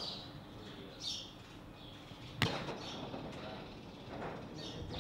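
Small birds chirping a few times, with a single sharp knock about halfway through.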